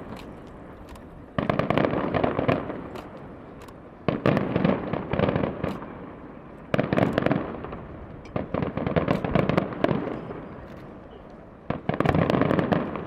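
Aerial fireworks shells bursting, five times about every two to three seconds, each a sudden bang followed by a second or two of crackling that fades away.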